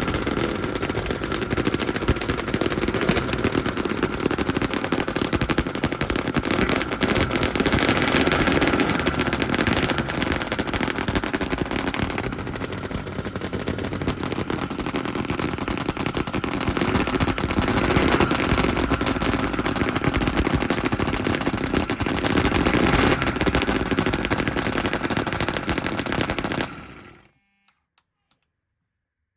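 A 90.48 cc scale-model V8 engine with a cast-iron block running fast, its exhaust a rapid, steady crackle of firing. Near the end it cuts off suddenly.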